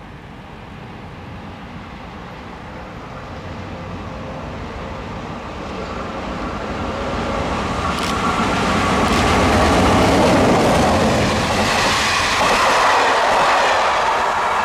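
A train approaching along the track and running past, growing steadily louder to a peak about ten seconds in, with wheel clatter on the rails and a few sharp clicks.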